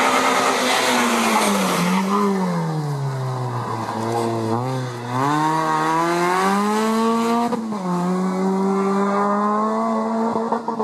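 Rally car engine: the revs fall as it slows, with a couple of quick blips near the middle, then climb again as it accelerates away, with a short break at a gear change about two thirds through before holding high.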